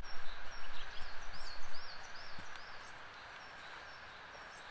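A small songbird calling repeatedly in short, high, rising-and-falling chirps, a few each second. A low rumbling noise on the microphone fades out over the first two seconds.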